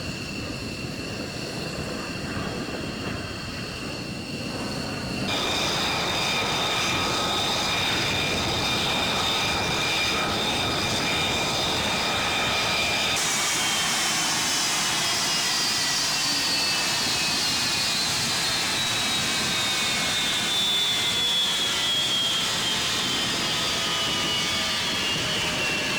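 Fighter jet engines running with a steady high whine over a noisy rush. The sound jumps abruptly twice, louder after about five seconds in. From about halfway, a high whine slowly falls in pitch.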